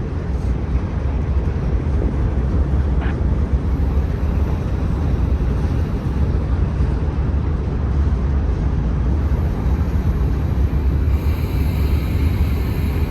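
Freight train cars rolling past, a steady heavy rumble of wheels on rail.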